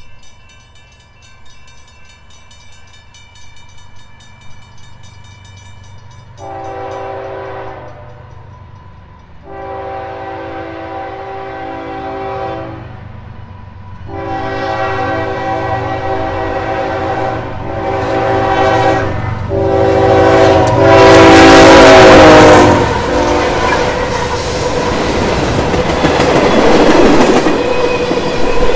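A freight locomotive's multi-note air horn sounds about six blasts, the later ones longer and louder as it nears, over faint ringing from a grade-crossing bell. The diesel locomotives then pass close by with a loud roar, and freight cars roll past with wheels clacking over the rail joints.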